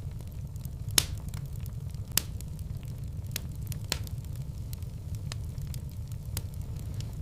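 Wood fire crackling in a fireplace: irregular sharp pops and snaps over a low steady rumble, with the loudest pops about one and two seconds in.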